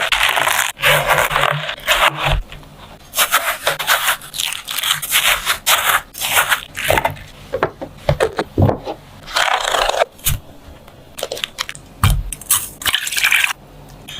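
Repeated, irregular scraping strokes from a utensil worked against a surface in food preparation, some short and some drawn out over about a second.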